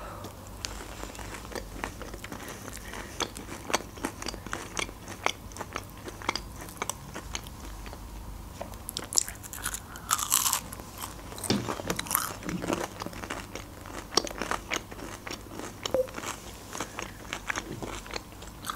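A person biting and chewing crunchy fried food, a steady run of small crunches with some louder bites.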